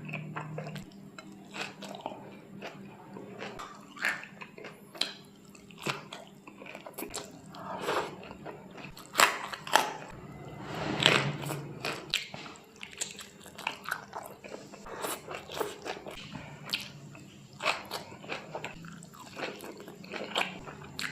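Close-miked mukbang eating: irregular crunchy bites and chewing of kerupuk kemplang crackers, with a few louder crunches about halfway through.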